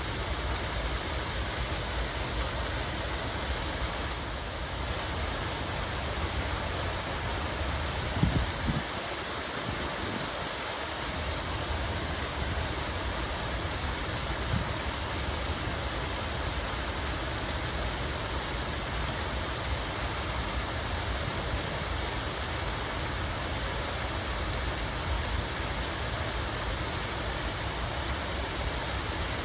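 Steady rush of running water, even and unbroken, over a low rumble, with a brief low thump about eight seconds in.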